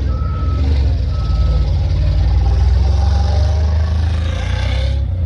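Ford three-quarter-ton van's engine running steadily on the course, a heavy low rumble, with two short high tones in the first two seconds.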